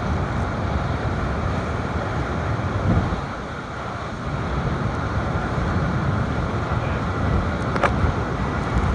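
Hurricane wind buffeting the microphone over the steady rush of storm surf, easing briefly about three and a half seconds in, with a short click near the end.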